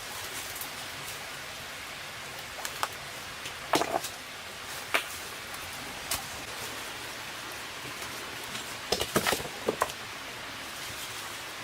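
Steady hiss with scattered sharp knocks and clicks, a quick cluster of them about nine seconds in.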